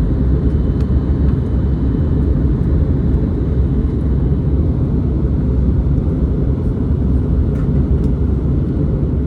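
Steady airliner cabin noise inside an Airbus A321neo in flight: a deep, even rumble of engines and airflow, with a faint steady hum above it.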